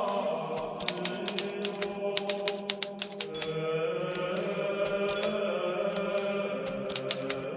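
Hermes Baby portable typewriter keys striking in quick irregular runs with short pauses, over slow sustained background music.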